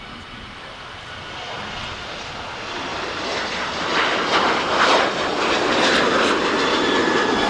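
Jet airliner's engines roaring and growing steadily louder as the aircraft comes closer, with a faint high-pitched whine over the roar near the end.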